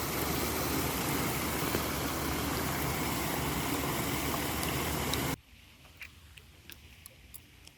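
Steady rush of falling water from a garden waterfall, cutting off suddenly about five seconds in, leaving quiet with a few faint clicks.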